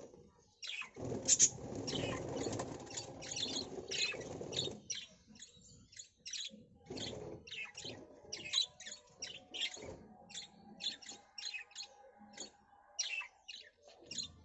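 Small birds chirping: a rapid run of short, high chirps throughout. A louder low rushing noise sits under them for the first few seconds.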